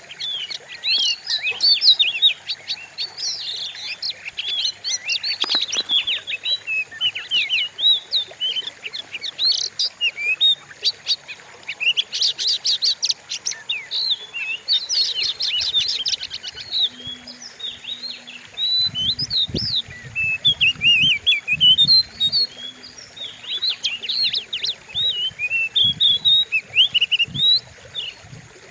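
Oriental magpie-robin (kacer) song: a fierce, dense run of rapid chirps and short whistled glides. A few low thumps come about two-thirds of the way through.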